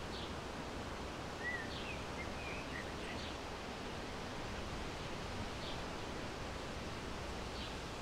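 Birds chirping over a steady outdoor hiss: a short, high, falling note repeats every second or two, and a few lower chirps come between about one and three seconds in.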